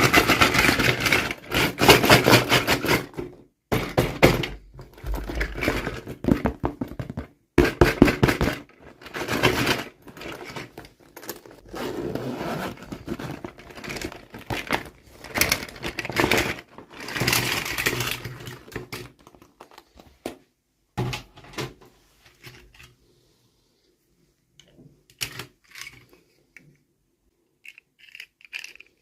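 Toy packaging being opened and handled: scraping, tearing and crinkling with knocks, in a dense run of bursts that thins to scattered clicks and taps about two-thirds of the way through.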